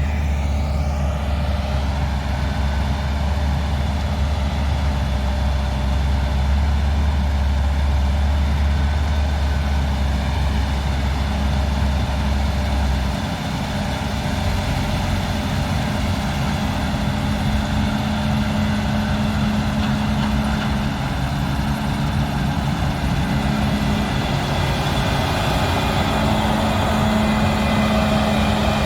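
Large diesel harvest machinery, a combine harvester at work, running steadily with a constant engine drone. A deep low hum underneath cuts off suddenly about 13 seconds in, while the engine carries on.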